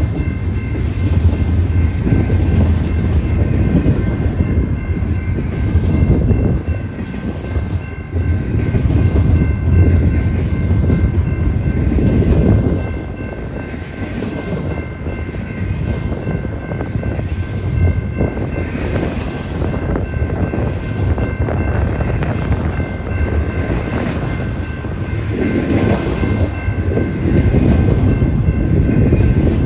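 A freight train passing with a heavy, continuous low rumble that eases about halfway through and swells again near the end, with faint steady high-pitched tones over it.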